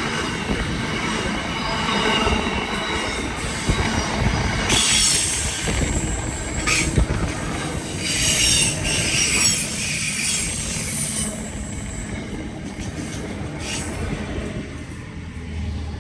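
Train moving through the station, its steel wheels squealing against the rails over a steady rumble from the track; the squeal is loudest in stretches from about five to eleven seconds in, then dies away.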